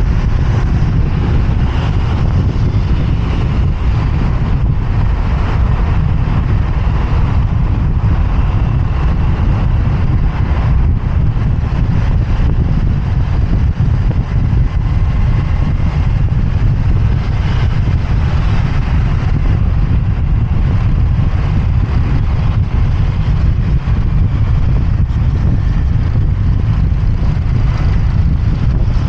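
Motorbike riding through city traffic: a steady, heavy low rumble of wind buffeting the microphone mixed with the bike's running and surrounding traffic.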